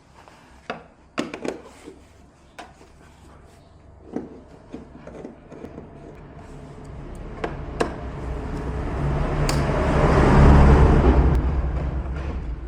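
A few sharp knocks and clicks, then a motor vehicle passing by: it grows louder to a peak near the end and fades away.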